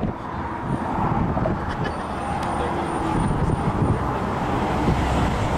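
Steady noise of road traffic, cars and tyres running on the road beside the bridge.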